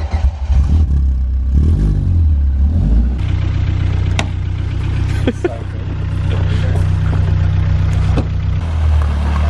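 Caterham 310S's 1.6-litre four-cylinder engine started on the starter button, catching and revving briefly over the first few seconds, then settling into a steady idle. A few sharp clicks sound over the idle.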